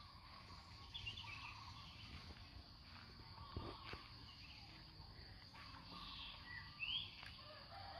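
Faint early-morning village ambience: birds chirping now and then, with a short chirp about a second in and a quick rising call near the end, over a steady background of insects.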